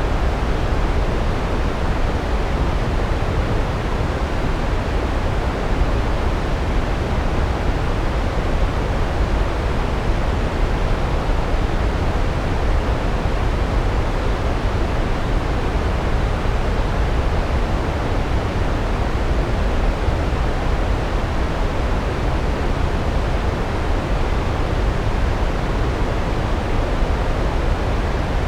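Large waterfall: a steady, loud rush of falling water, deep and even, with no breaks.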